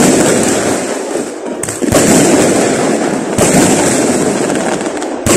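Aerial fireworks going off: loud bangs about every one to two seconds, two of them close together near the second mark, each followed by a long echoing tail.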